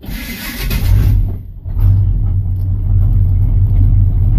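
1982 Chevy Custom Deluxe pickup's engine starting from cold with no choke, heard from inside the cab: a burst of noise as it catches, a brief stumble about a second and a half in, then a steady low run as it keeps going on its own.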